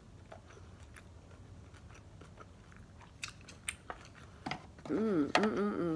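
Close-up chewing of sushi, with soft wet mouth clicks and smacks, a few sharper ones a little past three seconds in. Near the end a voiced sound comes in.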